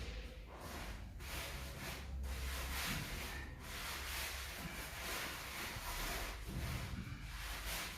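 A hand tool scraping over mortar in a series of strokes, each a fraction of a second to about a second long with short breaks between them, as the floor bed is smoothed and sloped.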